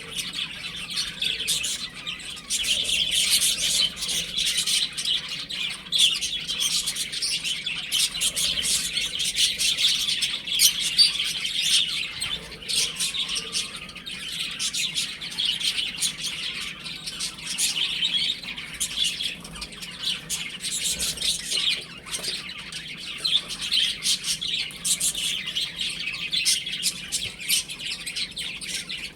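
A group of baby chicks peeping, many short high chirps overlapping one another.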